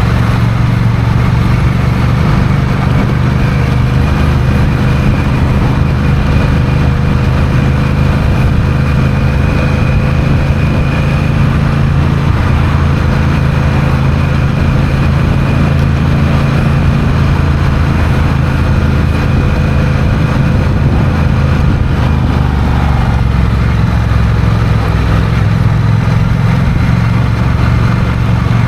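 Honda CMX1100 Rebel's 1,084 cc parallel-twin engine running at a steady road speed while riding, with wind noise over it. The engine note holds steady, with no revving or gear changes.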